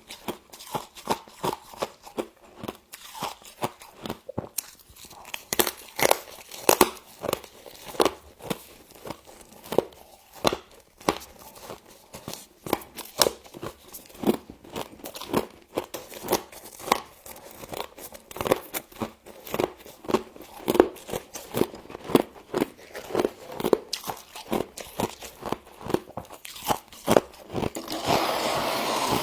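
Humidifier frost being bitten and chewed: a steady run of crisp crunches, several a second, with a stretch of continuous rasping crunch near the end.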